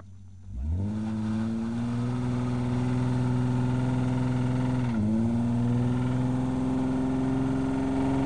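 Nissan 300ZX's V6 engine revved up about a second in and held at high revs, with a brief dip and recovery about five seconds in, as the rear wheels spin for a burnout.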